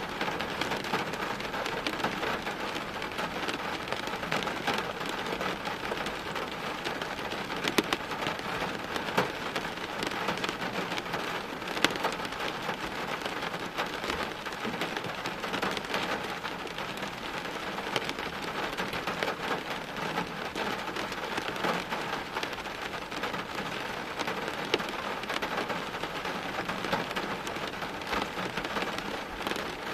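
Steady rain falling and pattering on hard surfaces, with many separate drops ticking through it and a few louder drips around 8 and 12 seconds in.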